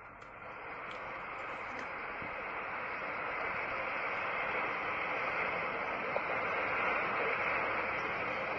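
A steady rushing noise with no clear tone or distinct strikes, gradually growing louder.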